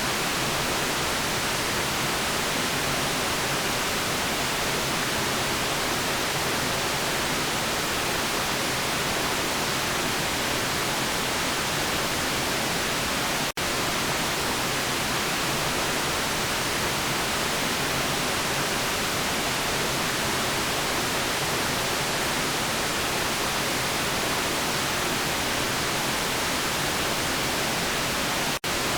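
Steady electronic white noise, an even hiss with no changes, broken twice by a split-second dip in level, once about halfway through and once near the end.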